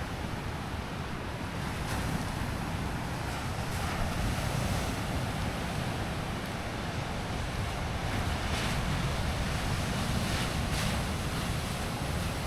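Sea surf washing steadily onto the shore, with wind buffeting the microphone as a low rumble.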